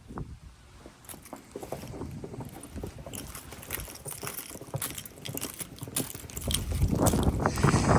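Footsteps crunching through snow, growing louder and denser from about six and a half seconds in.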